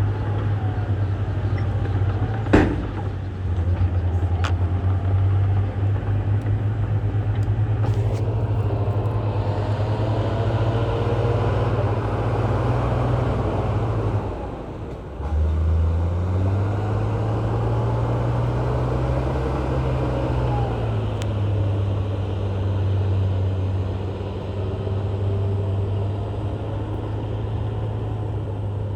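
Heavy earthmoving diesel engine running under load, its revs dropping briefly about halfway through and then rising and falling again. A sharp knock comes about two and a half seconds in, with a few fainter clicks after.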